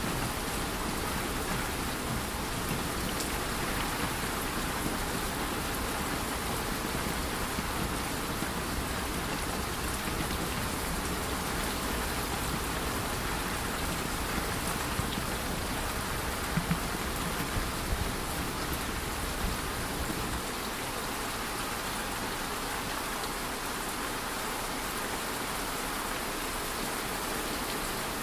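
Steady rain falling, with a few short knocks between about 16 and 20 seconds in. About twenty seconds in, the low rumble under the rain drops away.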